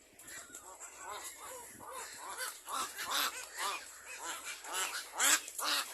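Birds at a nest calling: a rapid run of short, arched calls, several a second, growing louder, with two loudest harsh calls near the end.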